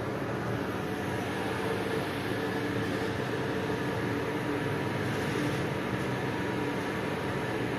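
A steady mechanical hum over even noise, with faint steady tones and no change throughout.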